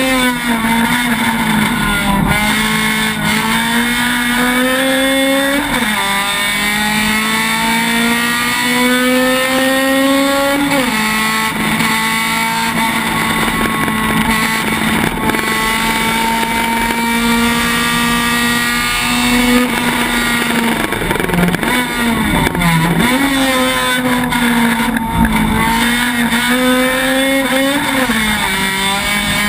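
A Honda Civic race car's four-cylinder engine heard from inside the cabin at racing speed. The engine note climbs and drops sharply at upshifts about 6, 11 and 28 seconds in, holds steady at high revs through the middle, and falls away with short dips around 20 to 23 seconds, as the driver brakes and downshifts.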